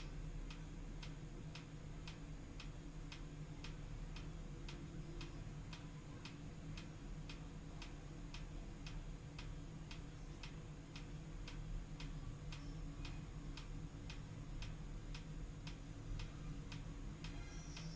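Steady, even ticking, about two ticks a second, with a low hum underneath.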